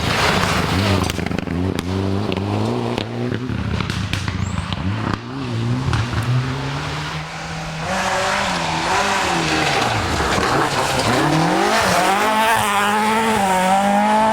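Rally car engine at full throttle, the revs climbing and falling through gear changes, then dropping sharply about ten seconds in before rising again with quick up-and-down blips.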